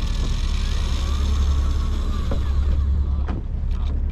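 Fishing boat's engine running with a steady low drone, with a single knock a little over three seconds in.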